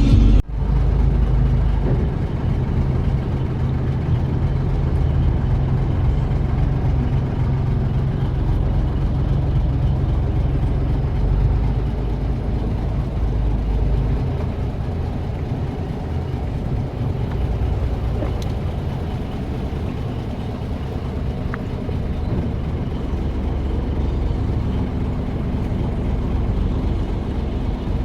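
A boat engine running steadily with a low rumble, its deepest part easing a little about halfway through.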